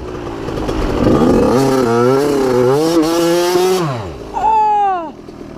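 Dirt bike engine revving, its pitch rising and falling repeatedly, then dropping away about four seconds in.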